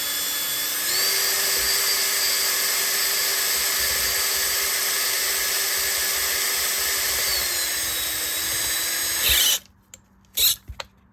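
Electric drill running steadily, spinning old fishing line off a spincast reel's spool through a piece of broken rod chucked in it. Its pitch rises about a second in and sags near the end before the drill stops, followed by a few small clicks.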